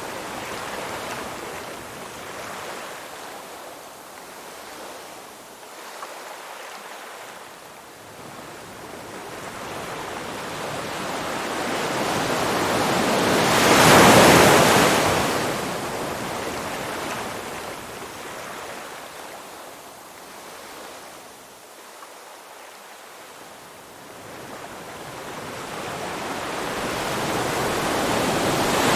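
Ocean waves washing onto a shore: the rush builds slowly to a loud crash about halfway through, drains away, and swells again near the end.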